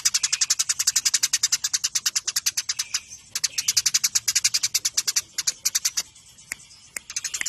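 Eurasian tree sparrows chirping rapidly in a fast, dense run of sharp high chirps, about ten a second, as in a squabble. The chirping thins to scattered notes about three seconds in and again from about six to seven seconds in.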